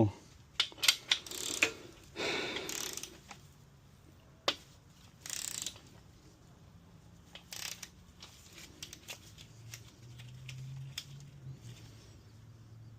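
Hand-tool work on an engine block: ratchet and socket clicks and metal tools knocking and scraping as main bearing cap bolts are tightened. Several sharp clicks come in the first two seconds, then short scrapes and scattered ticks.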